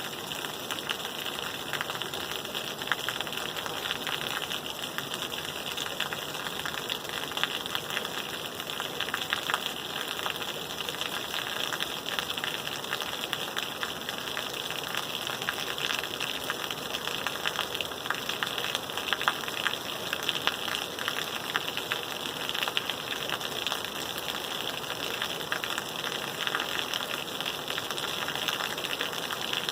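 Steady rain falling, a continuous dense patter of drops with fine crackling ticks throughout.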